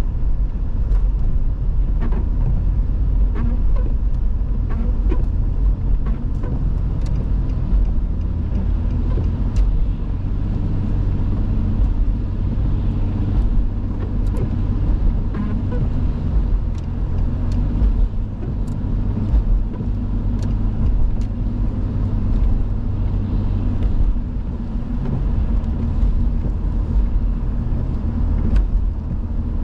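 A car being driven, heard from inside the cabin: a steady low engine and road rumble, with scattered faint clicks and ticks.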